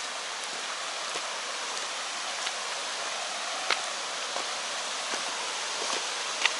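Steady rush of water from a mountain stream and its small cascading waterfall, with a few short sharp clicks over it.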